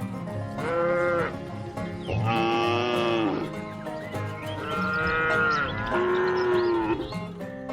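Cows mooing: four separate moos, each rising and then falling in pitch, about a second long, over steady background music.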